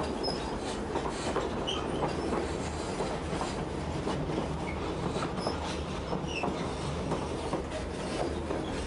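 White Pass & Yukon Railroad narrow-gauge passenger car running on the line: a steady rumble and clatter of wheels on rails, with short high squeaks now and then.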